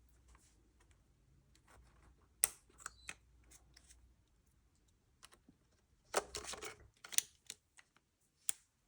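Hands handling plastic camera batteries and their packaging: scattered sharp clicks and taps, with a short rustle about six seconds in.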